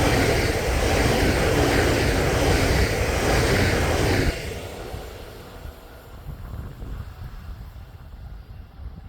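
A train passing at speed, its wheels running on the rails in a loud, even roar. The roar drops away abruptly about four seconds in as the last car goes by, leaving a fading rumble.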